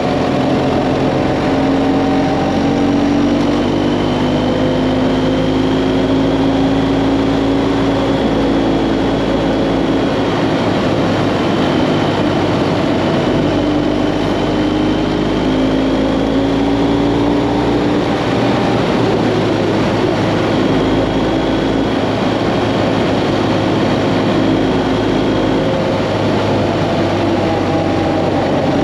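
BMW GS Adventure motorcycle engine running at road speed, its pitch drifting gently up and down with the throttle, over a steady rush of wind and road noise.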